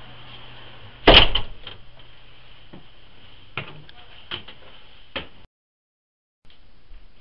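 A door slamming shut about a second in, followed by four lighter knocks spaced roughly a second apart. The sound drops out completely for about a second near the end.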